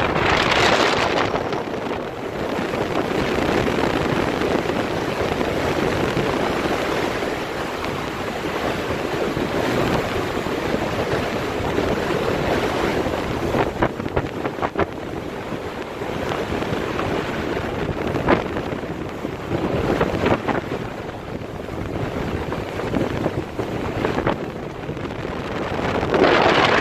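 Wind buffeting the microphone over a steady rush of water and boat noise, swelling and easing in gusts, with a few brief crackles from the wind midway.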